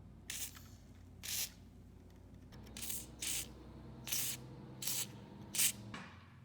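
A series of seven short spraying hisses at irregular intervals, each lasting a fraction of a second, over a faint steady low hum.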